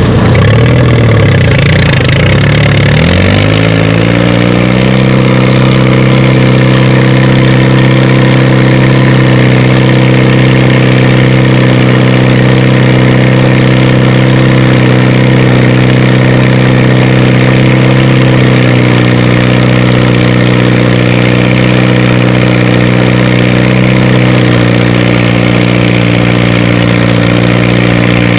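Antique tractor engine pulling a weight-transfer sled under heavy load. It revs up over the first few seconds as the tractor takes off, then holds a steady, loud working pitch. The pitch sags slightly twice in the later part as the sled's resistance builds.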